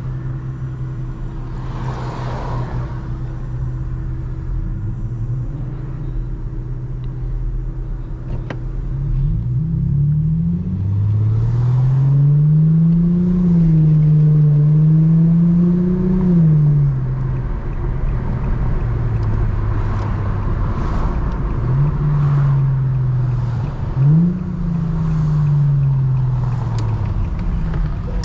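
Muffler-deleted Infiniti G35's 3.5-litre V6 exhaust, running steadily at low revs, then rising in pitch under acceleration about a third of the way in and falling back off. It climbs again later, with a sudden drop in pitch at a gear change.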